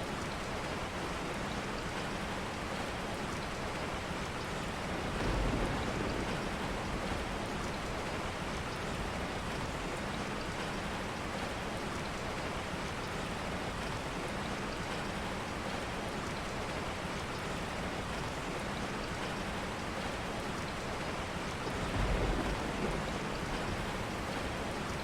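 Steady rain falling, an even hiss throughout. Two brief low rumbles come through it, one about five seconds in and one near the end.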